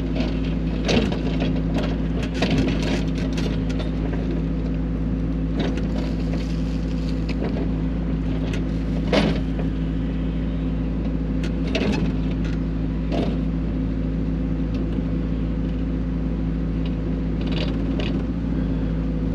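XCMG XE55U mini excavator's diesel engine running steadily while digging. Scattered sharp knocks and scrapes from the bucket working through rocky soil, the loudest about nine seconds in.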